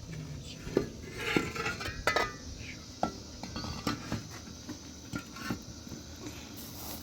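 Scattered light knocks and clinks of hard objects being handled, with a few ringing clinks about one to two seconds in.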